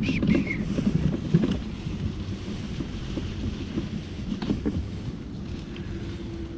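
Mini Crosser mobility scooter rolling along a rough, leaf-covered path: a steady low rumble of tyres and drive with scattered knocks, and wind on the microphone. A bird calls a couple of times at the very start.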